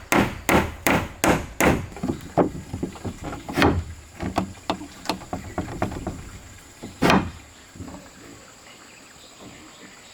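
Hammer blows on wood: a quick run of about six heavy strikes, then lighter, irregular taps, and one more heavy strike about seven seconds in.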